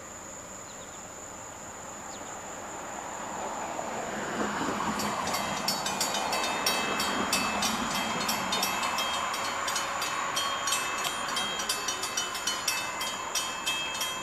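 Train approaching and rolling past, a rumble that builds over the first few seconds, then a rapid run of wheel clicks over the rail joints. A steady high whine of insects goes on underneath.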